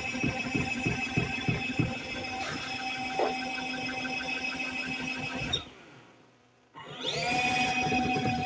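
Portable mini washing machine's electric motor spinning its spin-dryer basket with a shirt inside: a steady whine with uneven knocking in the first couple of seconds. About five and a half seconds in the sound cuts out for about a second, then comes back, its pitch rising as the basket spins up again.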